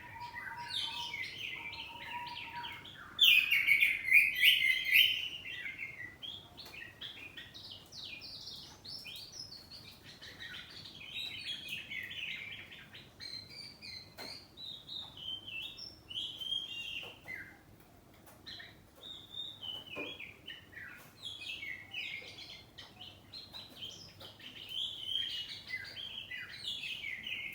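Oriental magpie-robin (white-bellied kacer poci form) singing a long, varied song of rapid chirps, trills and whistles, loudest about three to five seconds in.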